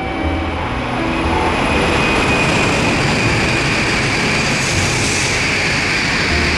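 Tokaido Shinkansen train passing at high speed: a loud rush of noise that builds over the first two seconds, with a steady high whine on top. Background music fades under it about a second in.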